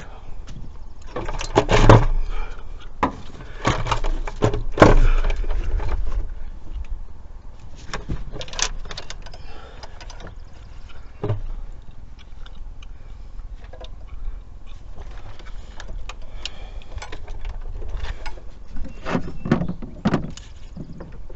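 Irregular metallic clanks, clicks and rattles of hand tools and parts being worked on an engine bay. The two loudest knocks come about two and five seconds in.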